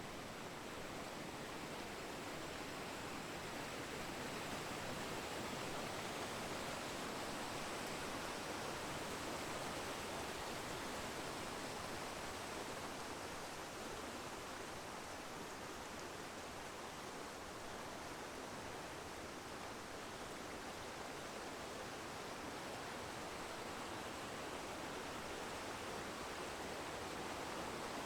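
Steady, even rushing noise with no distinct events, under a faint high steady tone.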